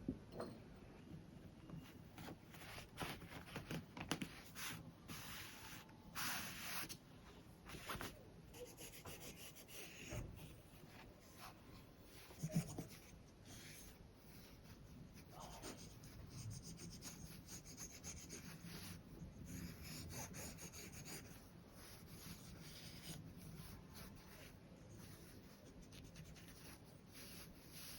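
Faint, irregular scratching and rubbing strokes of sewing materials being marked and handled, busiest in the first third, with a single sharper tap about halfway through.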